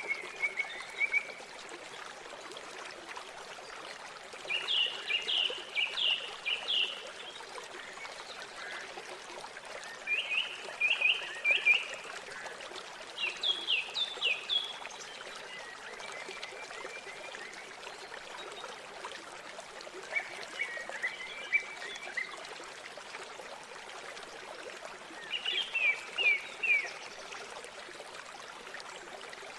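River water running steadily, with a small bird singing short phrases of quick, high notes every few seconds.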